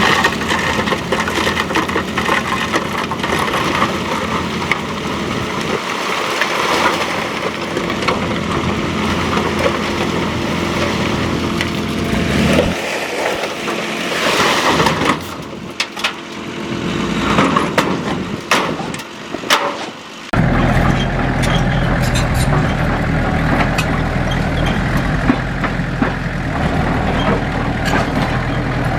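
Diesel engines of heavy earthmoving machinery running, with scattered metallic clanks and knocks in the middle; the sound shifts abruptly a few times, and in the last third a heavy engine runs with a steady low hum.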